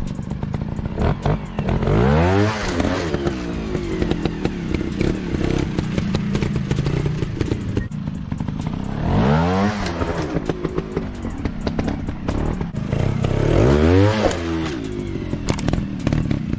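Dirt bike engines running and revving, with three sweeps of rising then falling pitch about two, nine and fourteen seconds in, over light clattering.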